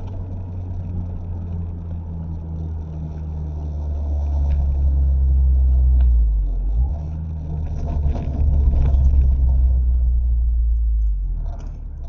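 Mazda MX-5 ND's four-cylinder engine, heard from inside the car, pulling louder under acceleration. The note drops briefly about halfway through, then pulls again before easing off near the end.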